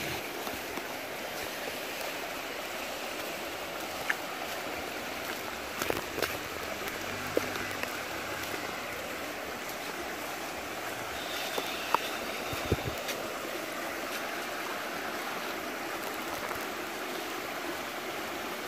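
Floodwater rushing steadily, with a few scattered knocks.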